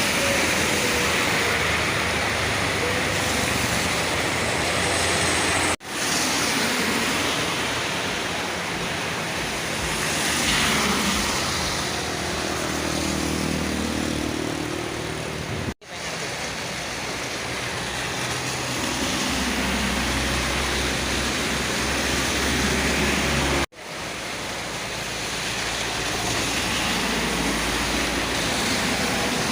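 Road traffic in heavy rain: a steady hiss of rain and tyres on the wet road, with truck engines running and one vehicle passing with a rise and fall in pitch near the middle. The sound cuts out abruptly three times.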